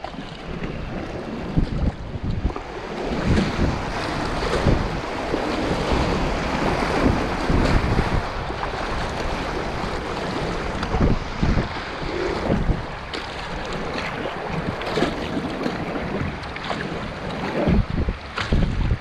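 Whitewater river rushing around a kayak running rapids, with irregular splashes and low wind buffeting on the microphone.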